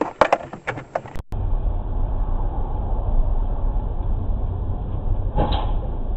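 A few sharp clicks, then a cut to the steady low rumble of a car's engine and road noise as picked up inside the car by a dashcam, with one short, louder sound about five and a half seconds in.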